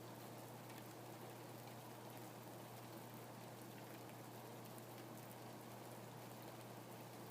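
Rain falling steadily, an even soft hiss flecked with faint scattered drop ticks, over a steady low hum.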